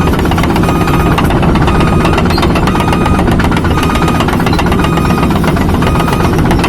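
Crawler excavator travelling on its tracks: the diesel engine running under load with a steady, dense metallic clatter from the tracks. A short high beep repeats about once a second, typical of a travel alarm.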